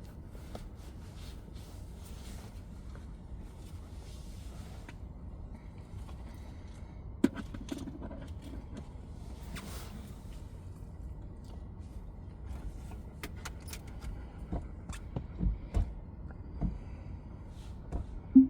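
Scattered knocks and clicks over a low steady rumble, the sharpest about seven seconds in and several more close together near the end.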